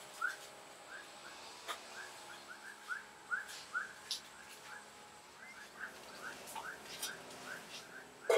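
A bird calling in a steady run of short, rising chirps, about two to three a second, with scattered sharp clicks among them.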